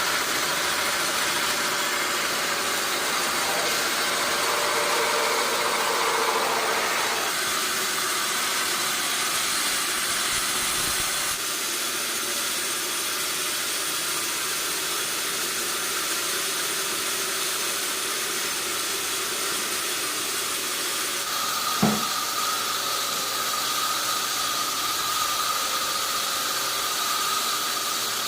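Sawmill machinery running steadily with a loud, even mechanical hiss, its tone shifting twice, and one sharp knock about three-quarters of the way through.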